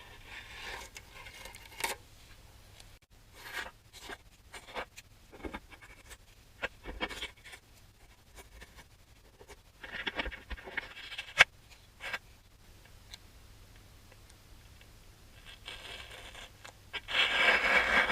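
Scattered light scrapes, clicks and small knocks of objects being handled, with a short rustling scrape about ten seconds in and a louder one near the end.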